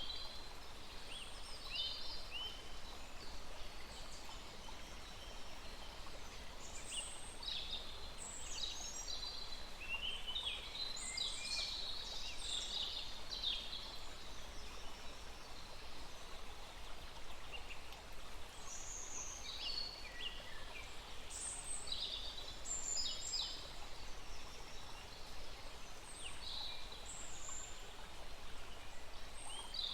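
Several small birds chirping and singing, with many short, quick calls overlapping, over the steady rush of a small stream.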